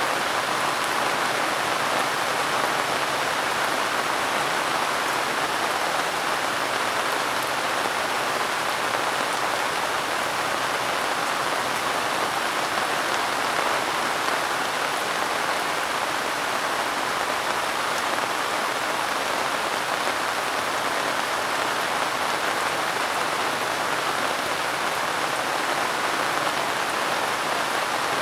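Steady, soft rain falling: an even hiss of many drops that holds the same level throughout.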